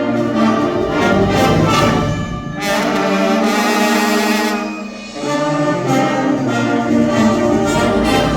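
School wind band playing live, a brass-led passage of sustained full chords with trombones and trumpets prominent; the sound thins briefly about five seconds in, then the full band comes back in.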